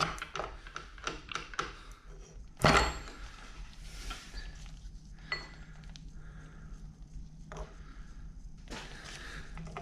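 Metal parts of a Bridgeport mill head clinking and knocking as the top bearing hub of the small bowl gear is worked loose, with one sharp knock and a short metallic ring about three seconds in and a few lighter knocks after.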